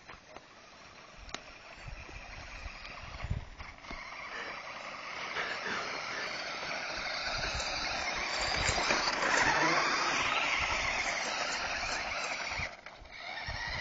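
Small radio-controlled car driving, its noise building up steadily over several seconds, then dropping off suddenly near the end.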